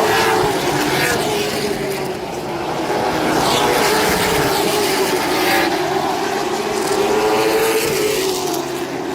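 Race car engines running laps around the track, their pitch rising and falling as the cars go around. The sound swells and eases, dipping about two seconds in and again near the end.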